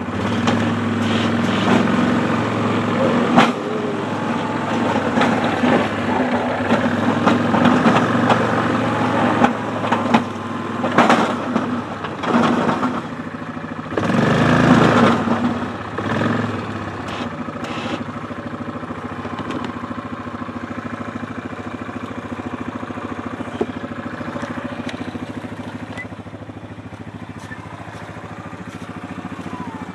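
ATV engine running, with noisy surges and clattering knocks over the first half, then settling to a steadier idle-like hum.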